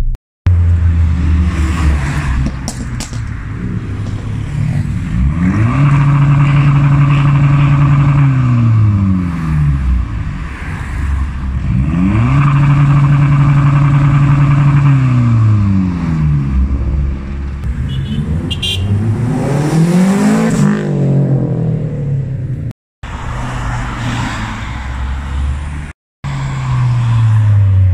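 A parked car's engine being revved: the revs climb and are held high for a few seconds before dropping back, twice over, then rise and fall quickly once more and die away near the end.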